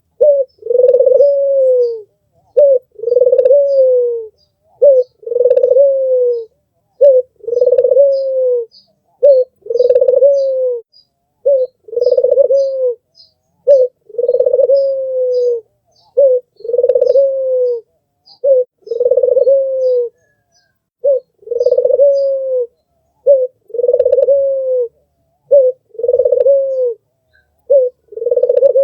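Albino ringneck dove (puter) cooing steadily and repeatedly: a short note followed by a longer, slightly falling coo, the pair repeated about every two seconds.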